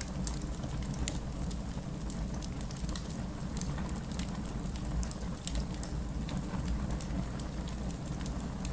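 Wood fire in a fireplace crackling, with scattered sharp pops and snaps, several a second, over a steady low rumble of the burning logs.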